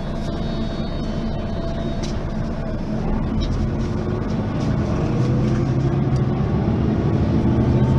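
Mercedes-Benz Citaro facelift city bus running with its engine note rising from about three seconds in. It grows louder as the bus speeds up.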